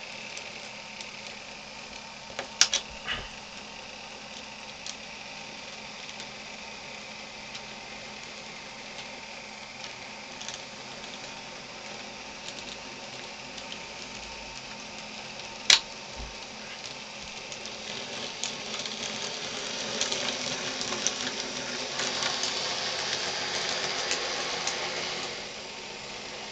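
N gauge model locomotive running on the layout's track: a steady small-motor whirr with wheel-on-rail noise, broken by sharp clicks about two and a half seconds in and again around sixteen seconds. The running grows louder from about eighteen seconds and cuts off suddenly near the end.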